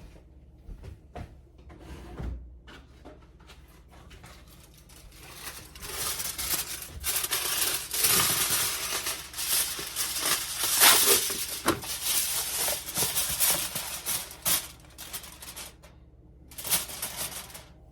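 Crinkling and rustling of thin wrapping being handled, loudest through the middle stretch, after a few light knocks near the start.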